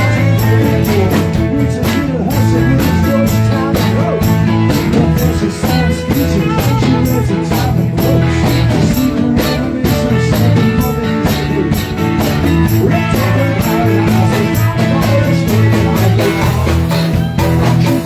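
Rock song with guitar and a drum kit playing a steady beat.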